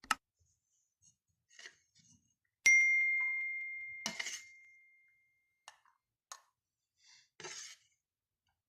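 Kitchenware clinking and being handled, with one sharp strike a little under three seconds in that rings on as a clear tone, fading over about three seconds.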